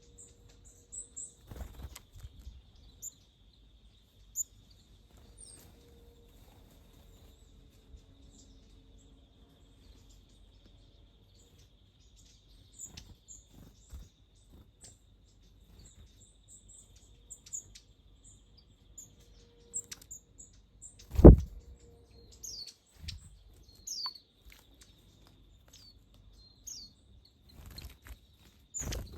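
Small wild birds chirping with short, high calls scattered throughout, and a few low thumps, one much louder about two-thirds of the way through.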